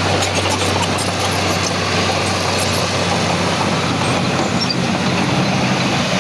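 Diesel engine of heavy earthmoving machinery running steadily, a low even drone with a wide mechanical noise over it.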